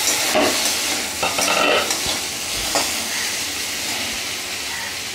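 Diced potatoes sizzling as they fry in a metal kadai, with a metal spatula scraping and stirring them in a few strokes over the steady sizzle.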